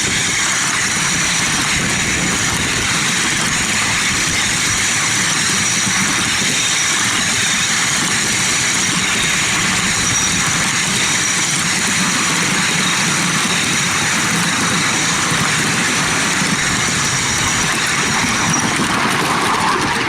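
A 7¼-inch gauge miniature railway train, hauled by a model 181 Class locomotive, running steadily along the track, heard from on board. A thin high whine sits over the running noise and fades out near the end.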